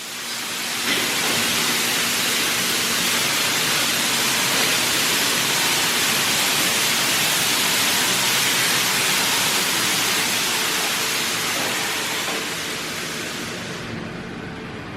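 PDQ LaserWash 4000 touchless car wash arm spraying onto the car: a loud, steady hiss of spray that swells in about a second in and eases off near the end.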